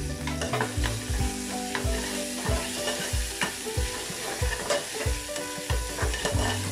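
Metal spoon stirring onions, green chillies and ginger-garlic paste frying in oil in a pressure cooker pan: a steady sizzle with repeated scrapes and clinks of the spoon against the pan, roughly twice a second.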